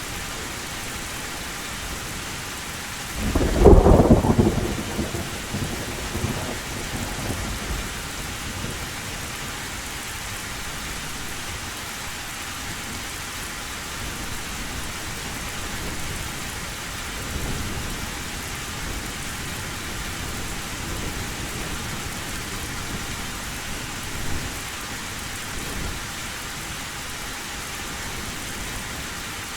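Heavy rain falling steadily on a tin roof. A loud thunderclap breaks about three seconds in and rumbles away over several seconds, with fainter rolls of thunder later.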